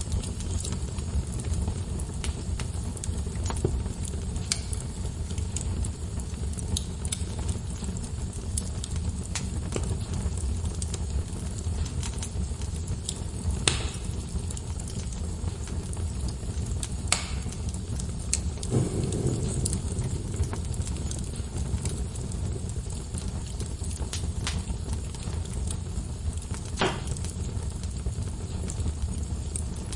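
Wood fire burning in a fireplace: a steady low rumble of flames with scattered crackles and a few sharp, louder pops.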